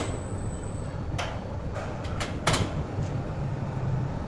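Large wood-saw machinery running with a steady low hum, broken by several sharp knocks.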